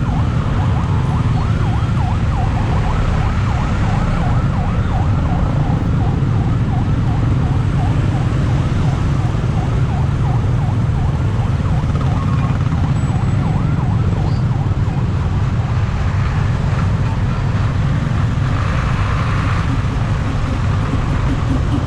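Railway level-crossing warning alarm sounding a rapid repeating warble, fading about halfway through, over a steady heavy low rumble of engines at the crossing.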